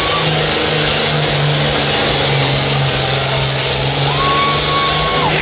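Pulling tractor's engine running loud and steady under full power, with a dense, noisy exhaust sound and a low engine note that dips slightly in pitch early on.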